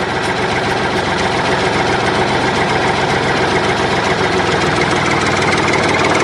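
Tractor engine idling steadily, with a fast even chugging.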